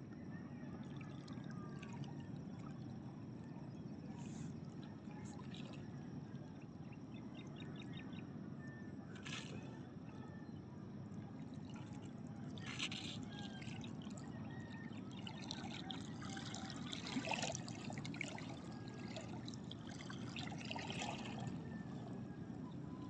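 Sea water lapping and trickling against a small boat, with scattered brief splashes.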